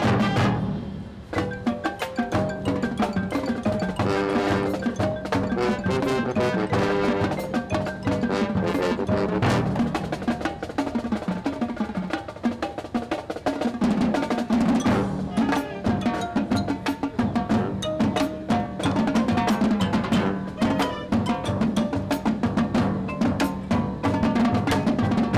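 High school marching band playing its field show, with drums and mallet percussion prominent. There is a brief drop about a second in, then dense, loud playing with many drum strokes.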